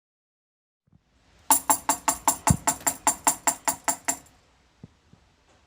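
A fast, even run of about fifteen sharp, ringing percussion strikes, roughly six a second, lasting nearly three seconds, followed by a few faint knocks.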